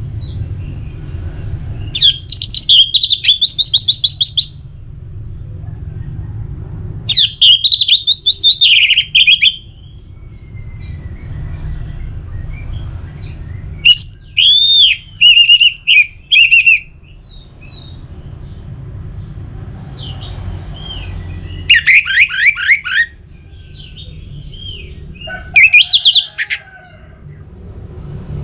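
Orange-headed thrush singing five loud, varied phrases of rapid whistles and trills, a few seconds apart, over a steady low background rumble.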